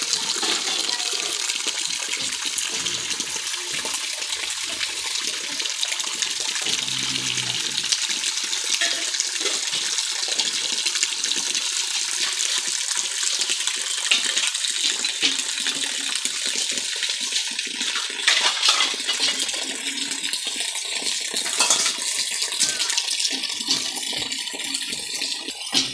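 Steady heavy rain with dense patter, and a few louder drip knocks about two-thirds of the way through.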